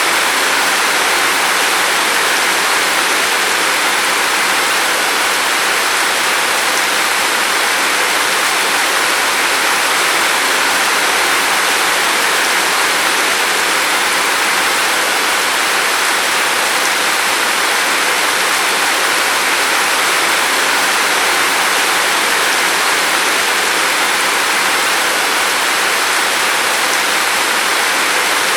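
Steady rain falling outside a window: an even, unbroken hiss with no separate drops or thunder standing out.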